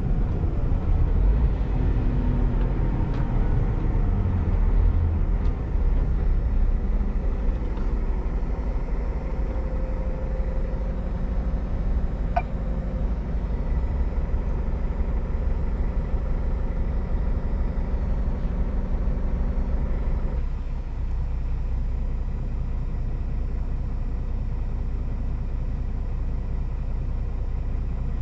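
Scania G410 truck's inline-six diesel engine running with road noise as the truck drives, a steady low rumble. It drops a little quieter about twenty seconds in.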